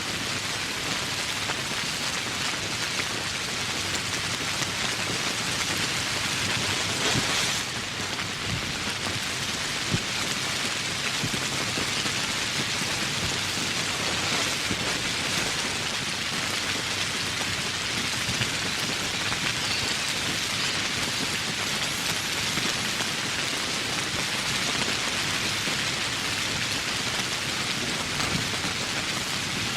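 Steady rain falling, an even dense hiss of drops with one sharp, louder drop strike about ten seconds in.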